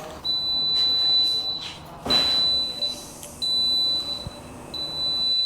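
A high-pitched electronic beep sounding in uneven on-off stretches, four times, with a short rustling burst about two seconds in.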